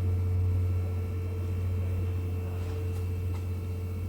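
Steady low machine hum, with a fainter higher tone held above it.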